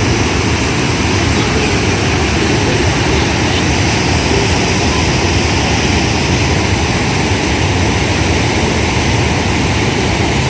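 Rushing floodwater: a loud, steady noise that never lets up.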